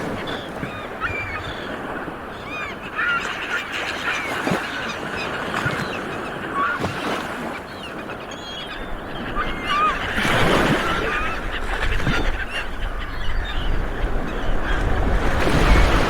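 Many seabirds calling at once, short overlapping squawks and honks of a colony, over a steady rushing noise that swells louder about ten seconds in and again near the end.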